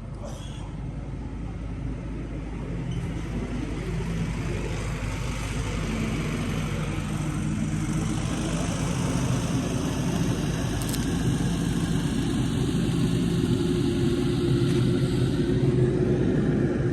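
An engine running steadily at an even speed, getting gradually louder.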